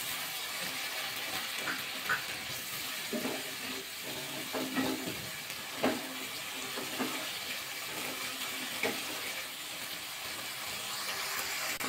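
Wet spice paste of ground cashew, chilli and onion sizzling steadily in oil in a kadai as it is fried down (kosha) over low heat. A wooden spatula scrapes and knocks against the pan several times as it is stirred.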